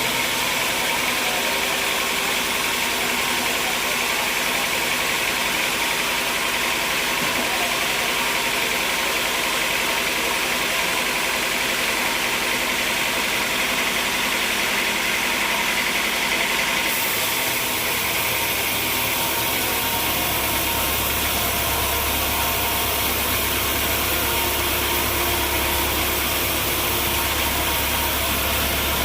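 An engine running steadily, with a deeper low hum coming in about two-thirds of the way through.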